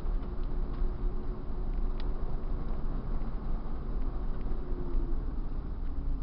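Car engine running at steady, fairly low revs with a heavy low rumble; its note eases down a little about five seconds in.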